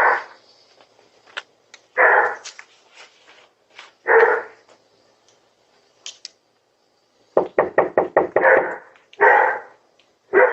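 Dog barking in loud single barks about two seconds apart, with a quick run of sharp knocks or bangs, about eight in under a second, a little past halfway.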